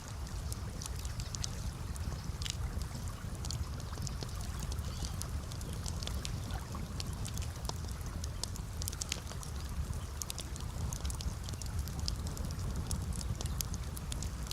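Campfire crackling: frequent small sharp pops and snaps at irregular intervals over a steady low rushing noise.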